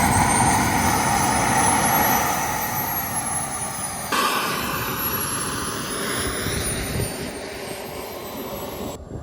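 Kerosene-fuelled model jet turbine on a large RC plane running, a steady rushing exhaust with a thin high whine that rises for a few seconds and then falls away.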